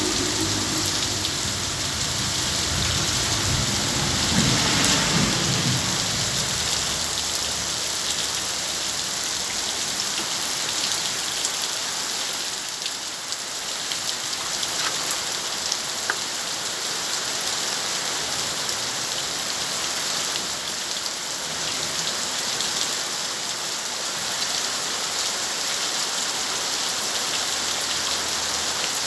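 Heavy rain falling steadily, with a low rumble of thunder fading out over the first few seconds.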